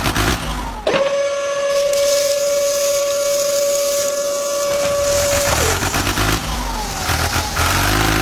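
A small electric motor whining at a steady high pitch from about a second in. Past the middle its pitch drops and wavers as if it is bogged under load, then it picks back up.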